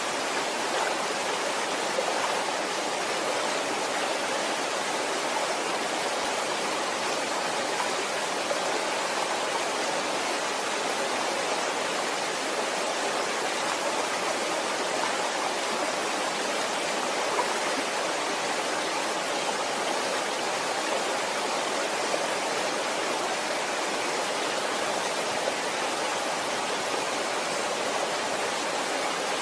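Waterfall: water falling and rushing in a steady, even hiss that does not change.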